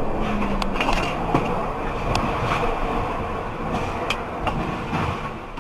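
Road vehicle noise: a steady rumble of traffic with several sharp clicks or knocks through it.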